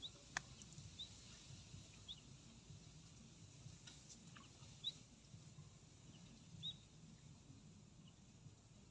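Faint, short, high chirps from a bird, repeating irregularly about every second or two over quiet outdoor background, with a sharp click about half a second in and another about four seconds in.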